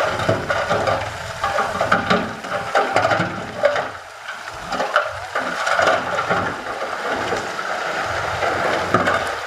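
Loose stone and soil tumbling and scraping in a steady crackling rush, dotted with many small clicks and knocks.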